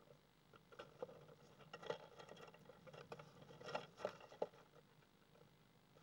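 A European pied flycatcher moving about inside a birdhouse: faint, irregular scratching and tapping, loudest around four seconds in.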